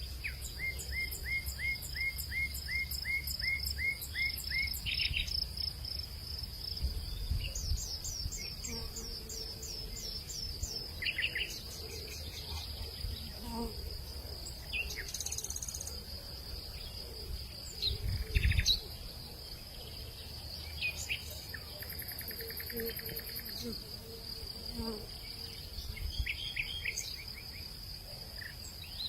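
Outdoor nature ambience: a steady high-pitched insect drone, with birds calling in quick series of repeated chirps, one series of about ten near the start. Under it runs a low rumble, and there is a loud low thump about 18 seconds in.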